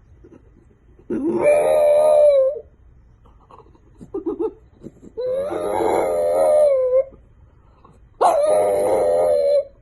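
A dog howling: three long howls, each rising at the start and then held with a wavering pitch for about one and a half to two seconds, with short pauses between.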